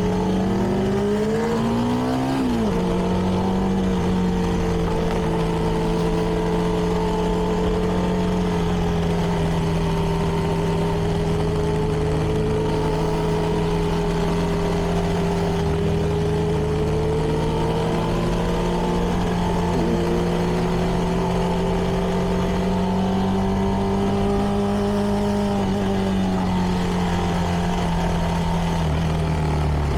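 CFMoto 300NK's single-cylinder engine running through its stock exhaust while riding. It revs up, drops in pitch at a gear change about two seconds in, then holds a steady cruise, rising slightly and easing off near the end.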